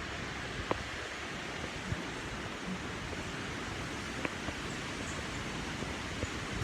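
High wind blowing steadily, with a few faint ticks.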